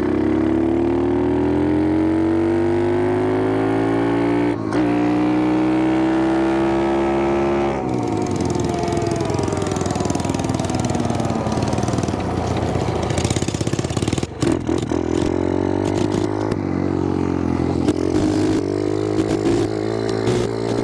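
Pit bike's small single-cylinder four-stroke engine pulling hard, its pitch rising through one gear, dipping at a shift about four seconds in and climbing again. The throttle then closes and the engine runs at uneven, changing throttle for the rest of the time, with a rushing hiss alongside.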